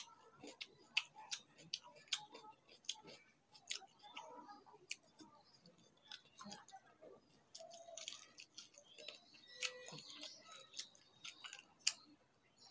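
Close-up eating sounds: irregular wet clicks and smacks of a mouth chewing rice and chicken curry, mixed with the soft squish of fingers working rice on a plate.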